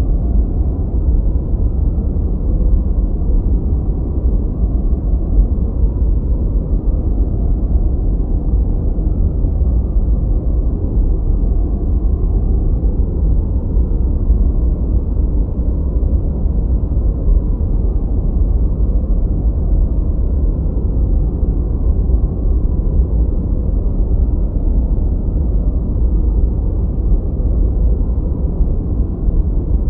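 Continuous steady noise, deep and even, strongest in the bass with no hiss above. It is a generated noise track of the kind used for focus, a dark rumble rather than the bright hiss of true white noise.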